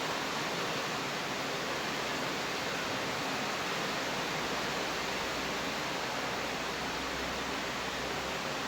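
Steady rain falling, an even hiss that does not change. A faint low hum comes in about halfway through.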